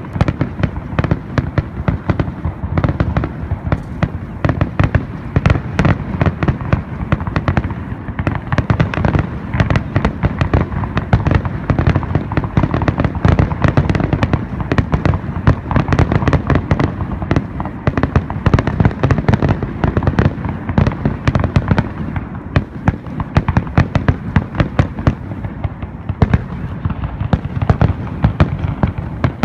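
Fireworks going off in a dense, unbroken barrage of rapid, loud bangs and pops, many each second.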